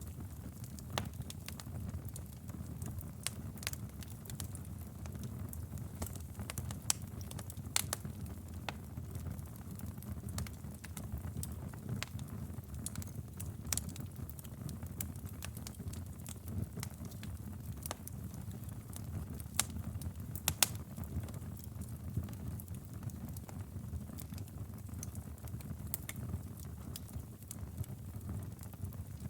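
Bonfire crackling: a steady low rumble of flames under many scattered sharp pops and snaps from the burning wood, with a few louder pops, the loudest about two-thirds of the way in.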